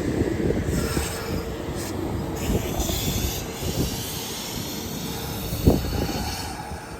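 Kintetsu electric train running on the track: rumbling noise with a faint steady tone, and a sharp knock about five and a half seconds in.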